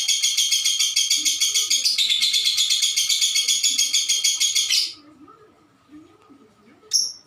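Lovebird singing a long, fast trill of about nine to ten notes a second, which drops slightly in pitch about two seconds in and stops abruptly about five seconds in. One sharp chirp follows near the end.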